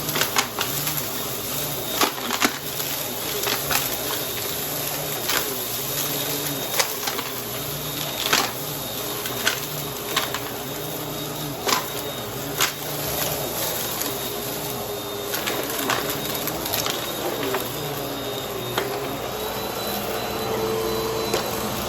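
Vacuum cleaner running steadily while sucking up crunchy debris, with irregular sharp crackles and clicks as pieces hit the brushroll and are pulled in.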